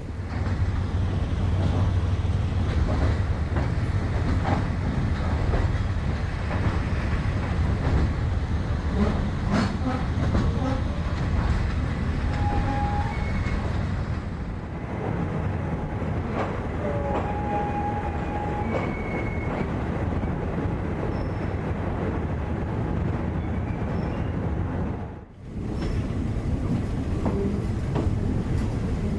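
Passenger train running on the rails: a steady low rumble with wheels clicking over the track and a few brief high-pitched wheel squeals. The sound dips sharply for a moment near the end.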